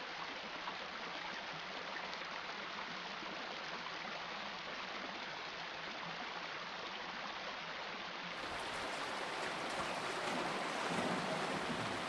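Shallow river rushing and running over its bed, a steady wash of water noise that grows a little louder in the last few seconds.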